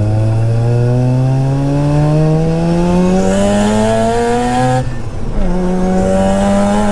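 Single-turbo Mazda RX-7 FD3S's 1.3-litre rotary engine accelerating hard. Its pitch climbs steadily for about five seconds, drops at a gear change, then climbs again in the next gear.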